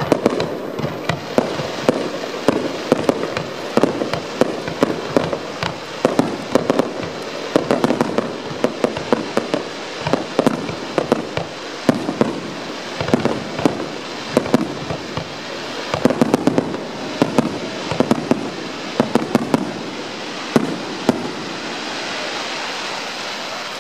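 Aerial fireworks shells bursting in quick succession: many sharp bangs over a continuous rumble. The bangs stop a little before the end, leaving a steady hiss.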